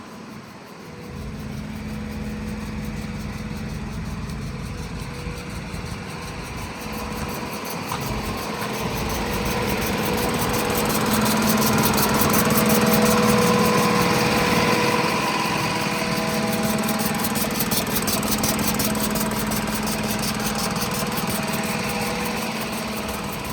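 Diesel street sweeper truck (Mercedes-Benz 1524 with a Faun Viajet sweeper body) running with a steady, even hum. It gets louder over several seconds toward the middle, then eases back down.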